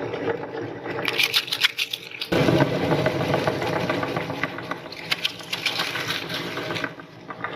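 Electric meat grinder running and crunching through something fed into it, with crackling clicks over the motor hum. A louder, denser grinding starts suddenly about two seconds in and drops away near the end.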